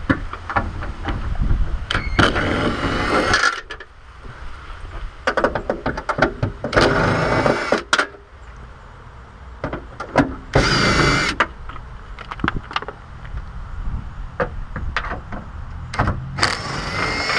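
A ratchet wrench with a socket running out bolts in four bursts of one to two seconds, with clicks and knocks of handling in between.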